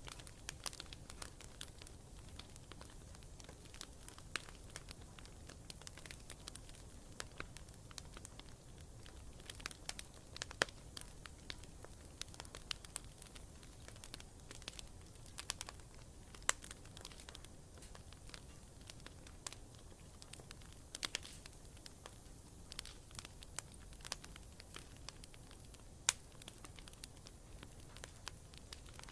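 Wood campfire burning steadily, with frequent irregular crackles and small pops over a low, even rumble of flame.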